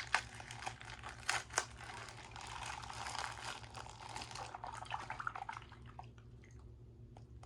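Liquid-filled plastic bag being squeezed and broken open: plastic crinkling with the coloured water sloshing and spilling, and a few sharp crackles in the first two seconds. It dies down after about five and a half seconds to a few small clicks.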